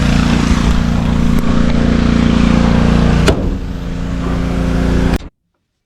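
Vehicle engine idling steadily, with a sharp click about three seconds in; the sound cuts off abruptly near the end.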